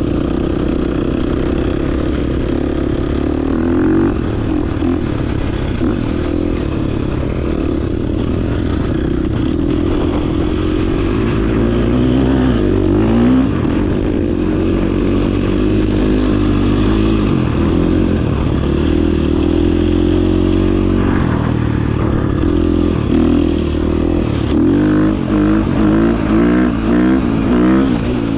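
Dirt bike engine running while riding, its revs rising and falling constantly with the throttle, with a quick series of throttle blips near the end.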